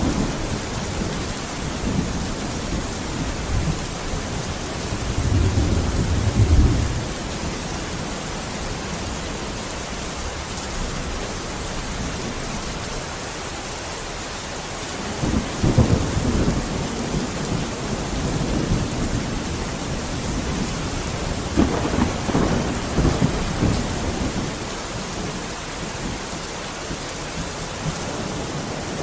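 Steady rain hissing, with thunder rumbling low three times: about five seconds in, about fifteen seconds in, and about twenty-two seconds in.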